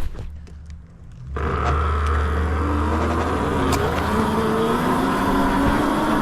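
Vehicle noise: a loud, steady rushing rumble that starts suddenly about a second and a half in, with a whine that slowly rises in pitch. Before it there are a few faint clicks.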